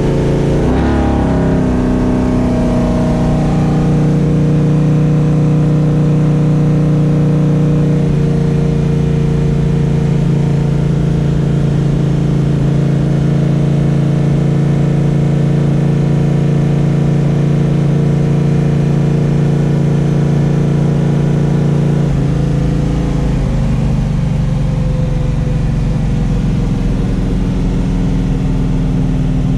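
Mopar 512 cubic-inch big-block stroker V8 running: it rises in pitch about a second in, holds a steady raised speed for about twenty seconds, then drops back to a lower, idle-like speed.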